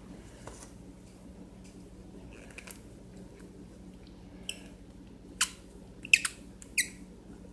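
Nail polish bottles being handled and their caps unscrewed: a few sharp little clicks and squeaks in the second half, over a faint steady hum.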